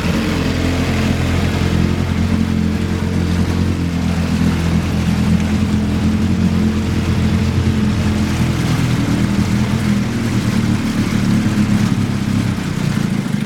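1976 Evinrude 9.9 two-cylinder two-stroke outboard running steadily. Near the end its sound drops as it is throttled back low.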